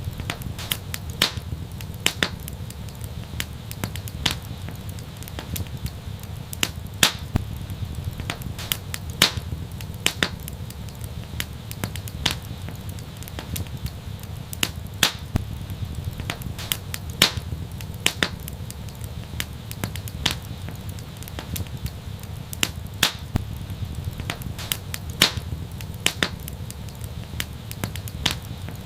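Fireplace fire crackling: irregular sharp pops and snaps, several a second, over a low steady rumble.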